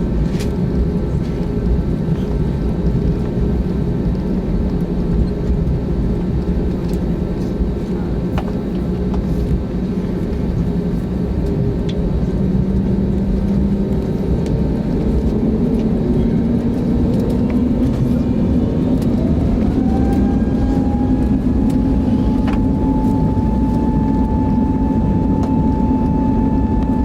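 Airbus A320neo's jet engines heard from inside the cabin, a steady loud rumble whose whine rises in pitch over a few seconds past the middle and then holds higher as the engines spool up, typical of thrust being set for the takeoff roll.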